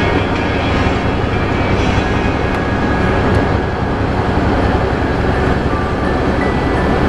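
Semi truck driving in snow: a steady, loud engine and road rumble with no sudden changes.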